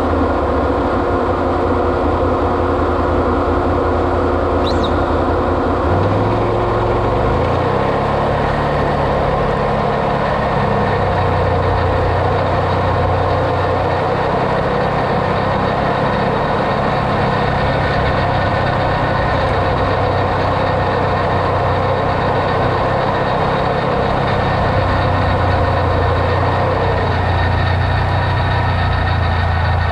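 Vehicle engine running steadily while under way, its note shifting and rising about six seconds in.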